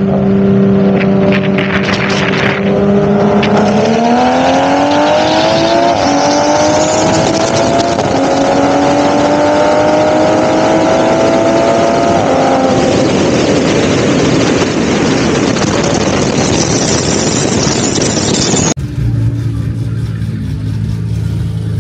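A performance car's engine holding a steady rev, then accelerating hard with rising pitch. The pitch dips briefly about six seconds in, then keeps climbing until the driver lifts off around twelve seconds in. A rushing road and wind noise follows, and then the sound cuts off abruptly.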